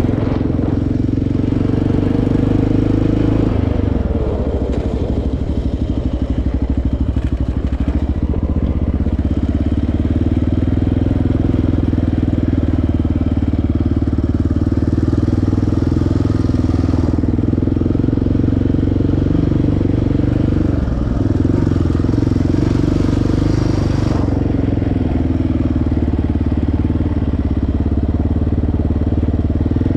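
Single-cylinder sport ATV engine running at a steady throttle, with a slight change in engine speed about two-thirds of the way through.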